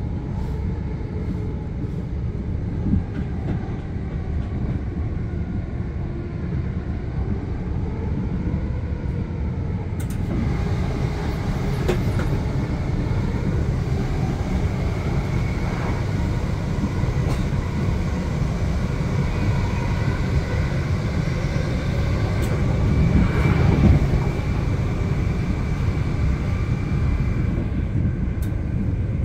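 Passenger train running between stations, heard from inside a coach: a steady low rumble with a few sharp clicks, and a faint high whine in the last third.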